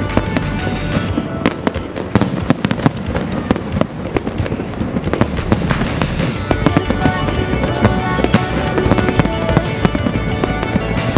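Fireworks going off in rapid succession: many sharp bangs and crackles, denser in the second half, over music.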